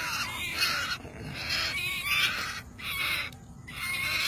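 Captured wild birds calling repeatedly: harsh, noisy calls in several bursts, each up to about a second long, with short pauses between them.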